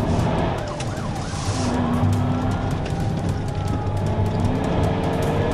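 Police car siren wailing in slow rising and falling sweeps, with a quick up-and-down yelp about a second in, over the pursuing patrol car's engine and road noise at high speed.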